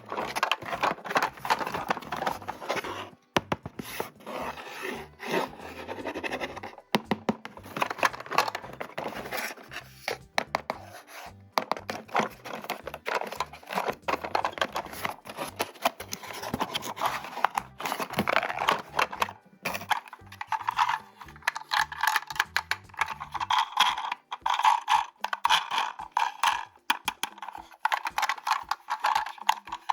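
Toy parts and packaging being handled during unboxing: irregular scraping, rubbing and clicking, with some tearing.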